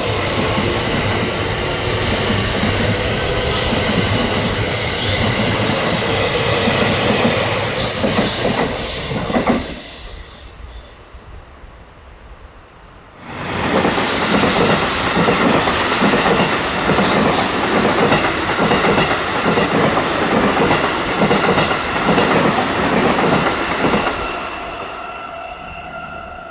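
An electric commuter train pulls out with running noise and brief high wheel squeals, fading about ten seconds in. A few seconds later a second train runs past loudly with a rapid clatter of wheels over rail joints, then fades away near the end.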